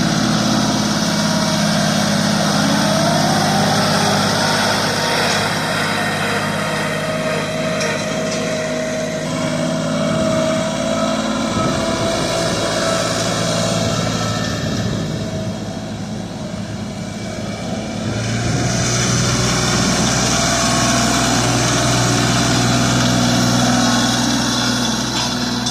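Tractor engine running steadily, its note sagging for a few seconds about fifteen seconds in and then picking back up.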